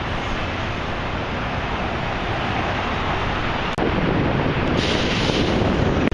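Steady city street noise, a rush of traffic and wind. About two-thirds of the way in it breaks off abruptly and comes back louder, with a hiss rising over it near the end.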